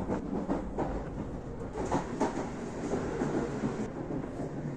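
Passenger train running on the rails: a steady rumble with irregular clacks and knocks from the wheels over the track.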